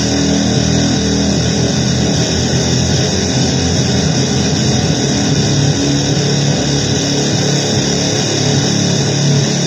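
Loud, dense noise music built on distorted electric guitar: an unbroken wall of sound whose low notes shift a little over halfway through.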